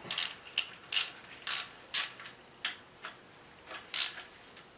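Ratchet wrench clicking in short back-strokes, roughly one to two a second with a pause in the middle, while backing out the 10 mm bolts on a Cummins diesel's oil pickup tube supports.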